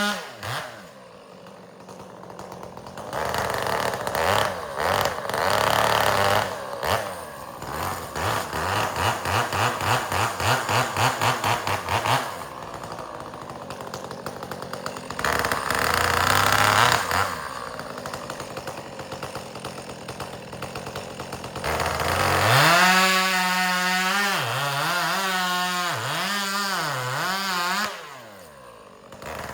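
Chainsaw bucking firewood: the engine revs up for several cuts and drops back to idle between them. Its pitch sags and recovers repeatedly as the chain bites into the wood.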